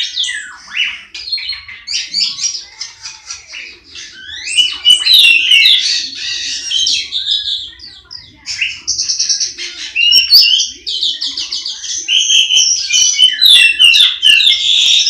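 Songbird singing a fast, varied song of rapid chirps and trills, getting louder about four and a half seconds in. It is a stimulus song of the kind played to get young untrained cage birds singing.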